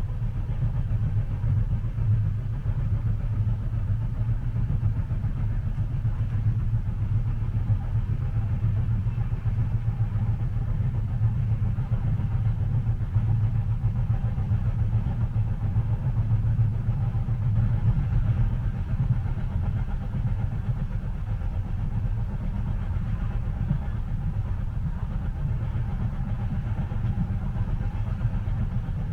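Steady low rumble of a moving train heard from inside the passenger cabin, even and unbroken with no distinct clicks or knocks.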